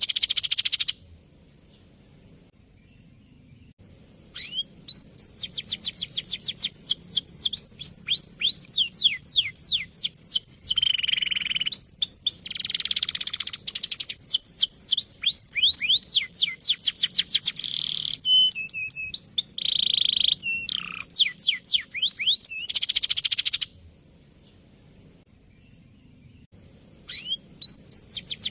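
Male domestic canary singing, rapid rolling trills of repeated falling whistled notes delivered in long bursts. Two pauses of a few seconds break the song, one just after the start and one near the end.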